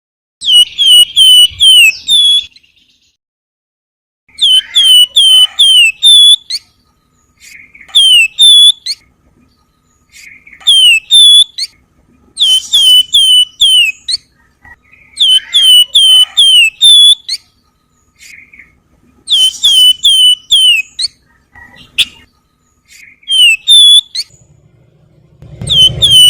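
Wergan Jawa (flamboyan) songbird singing in a whistled 'nyiul' style. It gives short phrases of three to five clear, falling whistled notes, repeated every two to three seconds with brief pauses. Near the end a low rumble sounds under the last phrase.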